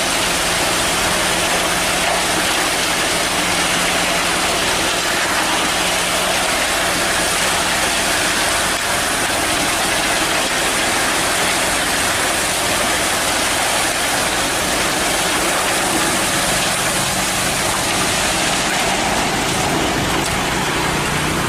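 Heavy diesel engine of a cement mixer truck running steadily, a constant low hum under a loud, even rushing noise.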